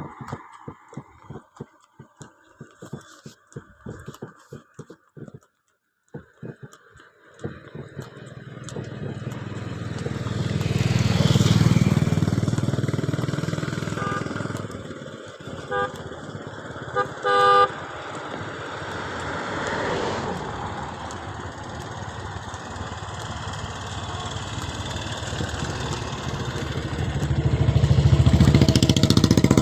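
Rustling and irregular clicks at first, then motor vehicle engines swelling as they pass close, three times. A horn toots in several short blasts about halfway through.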